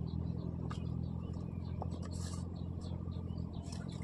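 A steady low engine drone, with a few faint high chirps over it.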